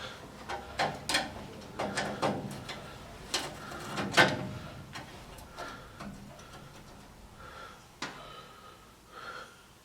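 Irregular metal clicks, taps and short scrapes of a screwdriver and small parts being handled inside a gas furnace as a screw is backed out and the flame sensor is freed. Busy through the first half, then a few scattered clicks, with one sharp click about eight seconds in.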